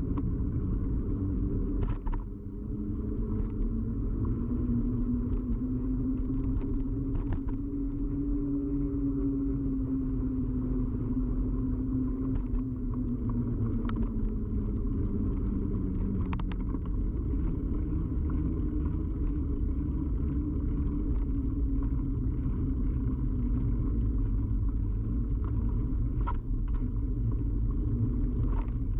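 Bicycle ride noise picked up through a camera fixed to the bike: a steady low rumble of tyres and frame vibration, with a hum whose pitch rises and then falls around the middle. A few sharp clicks or knocks come through here and there.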